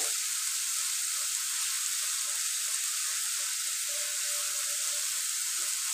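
Marinated paneer cubes frying in oil in a nonstick kadai, a steady sizzle as they are sautéed and turned with a silicone spatula.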